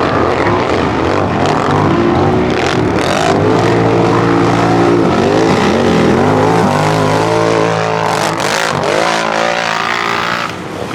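4x4 ATV engines revving hard, the pitch climbing and dropping again and again as the throttle is worked. They ease off briefly near the end.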